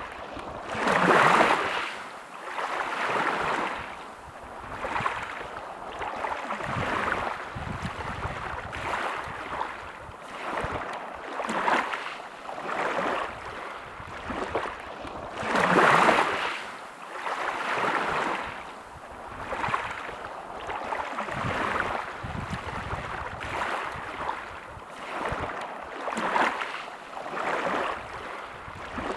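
Sea waves washing onto a beach, the surf swelling and fading about every two seconds, with louder breakers about a second in and again about halfway.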